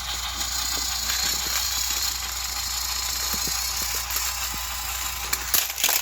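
Battery-powered Thomas & Friends toy train engines running, their small motors and gears whirring steadily with a light rattle, as they strain against each other in a strength contest. Near the end comes a short cluster of loud clicks and knocks.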